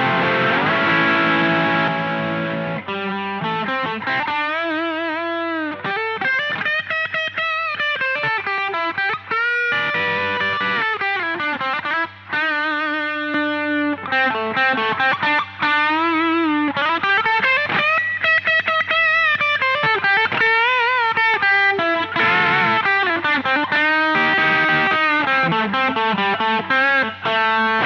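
Distorted electric guitar played through an Electro-Harmonix LPB-1 booster pedal. It opens with ringing chords, moves into a lead line of single notes with string bends and vibrato, and returns to chords near the end.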